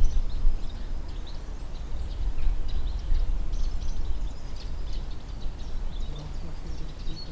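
Outdoor pond-side ambience: wind rumbling on the microphone, with scattered short high chirps and a faint low hum near the end.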